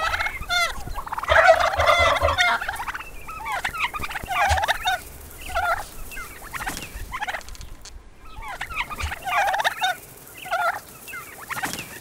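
Domestic tom turkeys gobbling: a string of short gobbles and calls, with longer rattling gobbles about a second in and again near the three-quarter mark.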